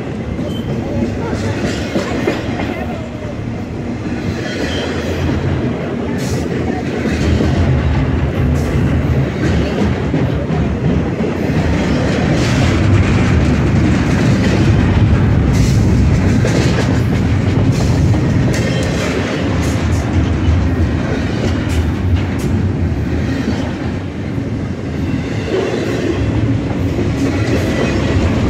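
Double-stack intermodal freight train passing close by: the steel wheels of the container well cars rumble and clatter over the rails in a loud, continuous run, with the rumble at its heaviest through the middle.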